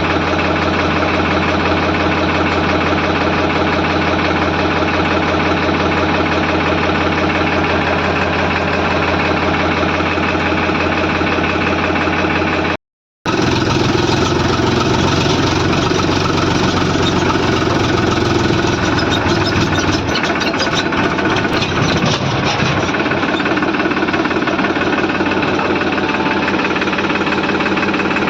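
Heavy diesel machinery engine running steadily at a low, even speed. The sound cuts out for about half a second around 13 seconds in, then returns with a rougher, changed engine note and extra clattering for a few seconds around the 18 to 22 second mark.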